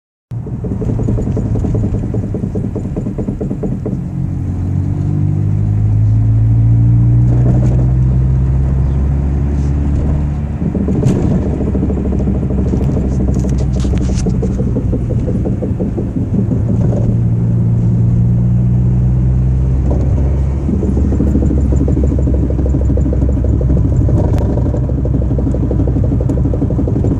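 Vehicle engine running with a rapid pulsing note, revved up and held twice. It has a knocking noise that the owner cannot explain.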